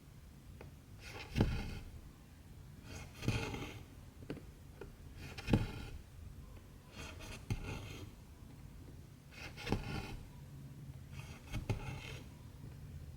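Hand cross-stitching: the needle taps through stamped 14-count fabric and the cotton thread rasps as it is pulled through, a tap and a short hiss about every two seconds, six times.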